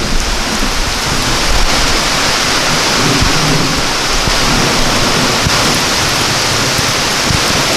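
Heavy rain pouring down in a steady downpour: an even hiss with a low rumble underneath.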